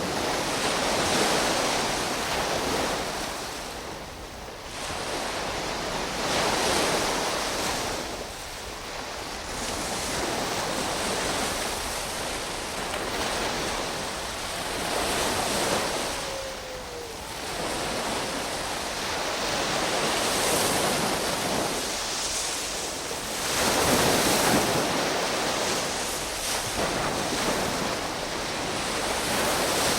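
Sea waves breaking and washing in, in swells that rise and fall every few seconds. A short faint falling whistle comes about halfway through.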